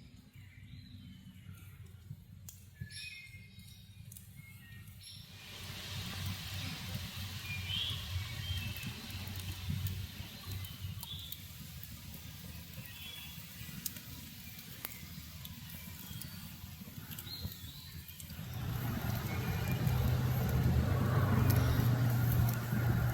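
Woodland ambience at dusk: scattered short bird chirps over a low rumble. About eighteen seconds in, a steady low hum grows louder, like a distant vehicle.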